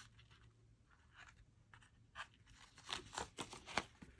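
Faint rustling and light taps of hands handling cardstock and ribbon, laying a strip of ruffled ribbon across an adhesive-covered card layer. A few short soft ticks come about halfway through and again near the end.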